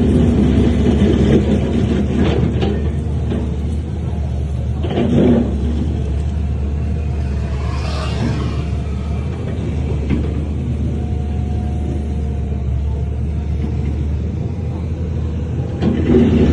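Diesel engine of heavy earthmoving machinery running with a steady low rumble, swelling louder briefly about five seconds in and again near the end. A short hiss about eight seconds in.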